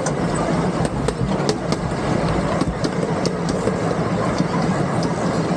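Miniature park train running along its track: a steady engine hum with scattered sharp clicks and clatter from the wheels and cars.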